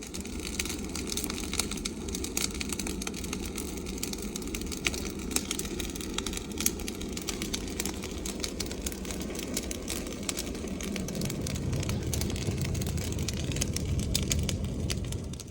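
Wood bonfire crackling, with many sharp pops over a steady low rumble that grows louder about two-thirds of the way through.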